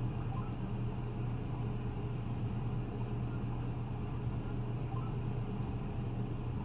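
A steady low hum over an even background hiss, unchanging throughout.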